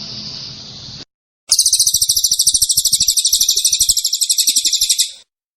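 Songbird song: a fast, high trill of rapidly repeated notes lasting about three and a half seconds. It follows a brief cut to silence and stops abruptly.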